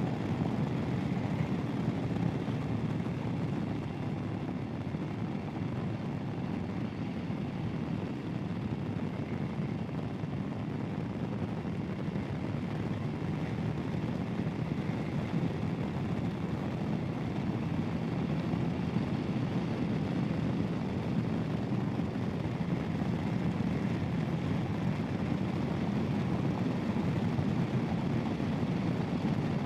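Royal Enfield Himalayan's single-cylinder engine running steadily under way, mixed with rushing wind and road noise.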